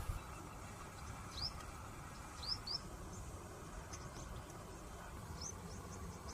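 Bird chirping: a scatter of short, rising chirps, a couple of them in quick pairs, over a low background rumble.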